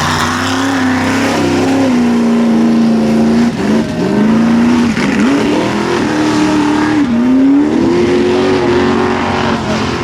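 Mega truck engine revving hard, its note held steady, dipping sharply twice about four and five seconds in, then climbing higher near the end.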